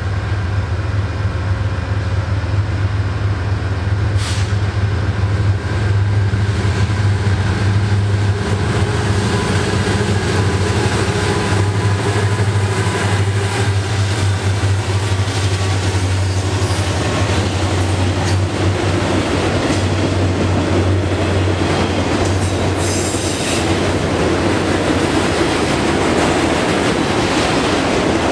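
Two Union Pacific SD70M diesel locomotives, with EMD two-stroke engines, run with a steady low drone as they approach and pass. After about halfway the drone fades and the freight cars roll by with rumbling wheel-on-rail noise. A brief high squeal comes from the wheels about three-quarters of the way through.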